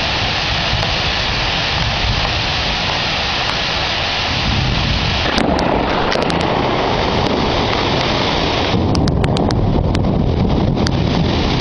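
Heavy rain pouring steadily during a thunderstorm, with a deep rumble underneath. The sound thickens and shifts about five seconds in and again near the end, with scattered sharp ticks of drops.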